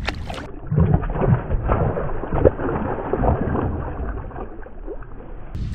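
Muffled, dull thumps and knocks with water sloshing around a fishing kayak, at irregular intervals.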